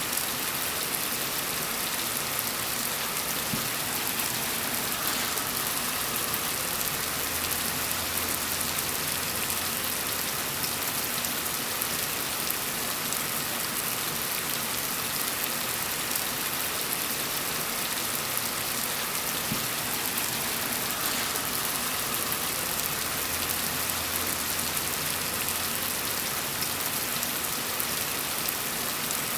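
Steady rain falling on a surface, an even hiss that never lets up. A faint low hum swells briefly twice beneath it.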